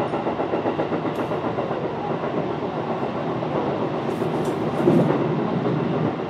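Electric commuter train running on the line, heard from inside the passenger car: steady wheel-and-rail rumble, with a brief louder knock about five seconds in.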